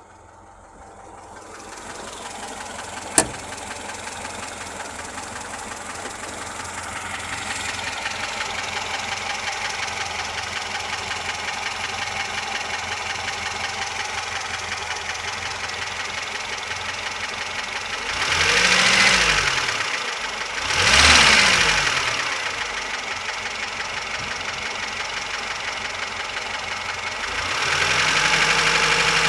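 VAZ-2107's inline-four engine idling with a rhythmic knock, the fault the owner is recording, with a single sharp click a few seconds in. The engine is revved briefly twice about two-thirds of the way through and again near the end.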